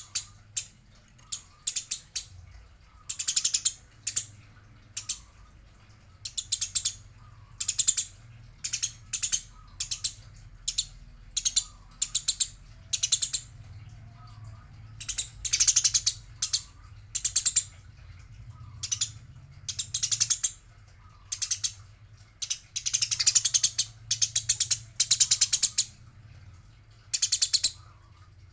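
Eurasian tree sparrows chirping in rapid, chattering bursts, each a quick run of harsh notes lasting under a second to about two seconds, with short pauses between. This is the agitated chatter of sparrows squabbling.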